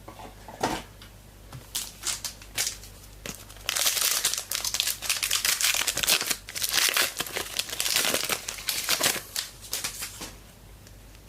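A trading card packet's wrapper being torn open and crinkled by hand: a few sharp crackles at first, then several seconds of steady crinkling that dies away near the end.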